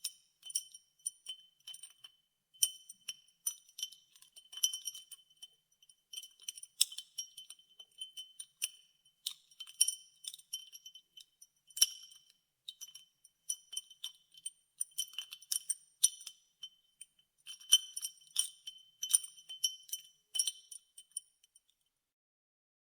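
Ice cubes in water clinking against a drinking glass as they are stirred: a quick, irregular run of small ringing clinks. The clinks stop about a second before the end.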